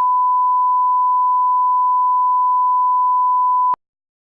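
A steady, pure electronic test tone of one unchanging pitch, like a reference tone at the head of a recording, cutting off abruptly with a click near the end.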